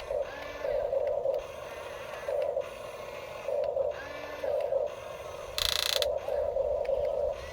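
Small electric gear motors of Huina toy RC construction vehicles buzzing in short bursts, starting and stopping repeatedly as the controls are worked. A brief harsher hiss comes a little after the middle.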